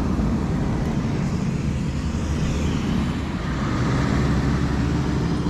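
A 4WD vehicle's engine running steadily in soft sand, a low rumble with a steady hum coming in about two-thirds of the way through.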